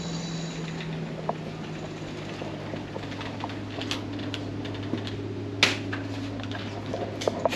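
A steady low motor hum with scattered light clicks and ticks, and one sharp knock about two-thirds of the way through.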